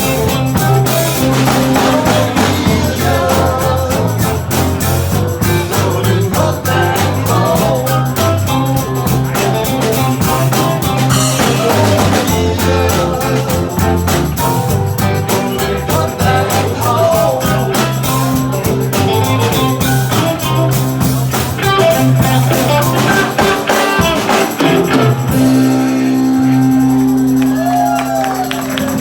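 Live rock band playing with bass, drums and guitar. About 25 seconds in, the band settles onto a long held chord.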